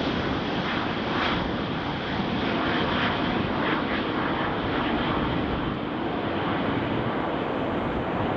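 Jet airliner engines, a steady loud rush of noise that holds without rising or falling.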